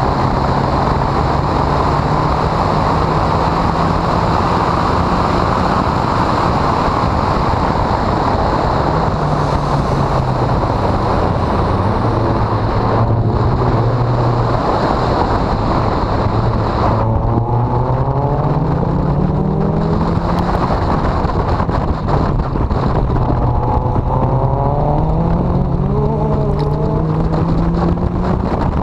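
Honda CRX engine at full-throttle track driving, heard over a loud rushing noise. Its note sags low about halfway through, then climbs and drops back in repeated steps as it accelerates through the gears.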